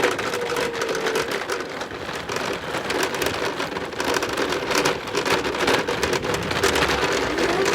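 Heavy thunderstorm rain falling hard, with dense close drops and splashes striking a surface. A steady tone sounds over it for about the first second.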